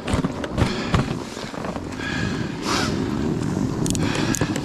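Snowboard sliding and scraping over snow as the rider sets off, a steady rush after a few knocks in the first second.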